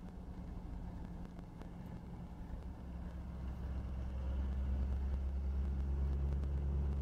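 5.9 Cummins 6BT turbo diesel of an early Dodge pickup pulling up a hill in fifth gear, heard from inside the cab. The low engine drone grows louder about halfway through as it pulls under load.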